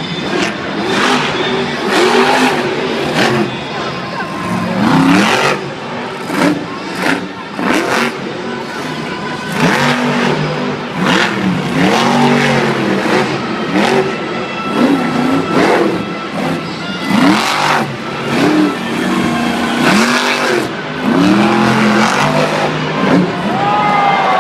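Monster truck engine revving up and falling back again and again, a dozen or more rising-and-falling revs, with sudden loud bangs scattered between them.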